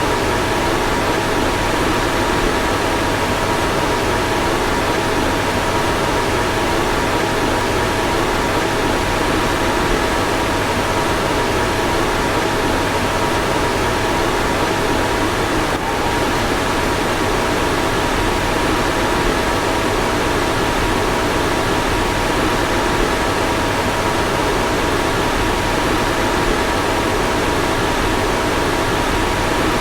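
Car fan running steadily: an even rushing whoosh of air with a few faint steady whining tones on top, and a tiny hitch in the level about halfway through.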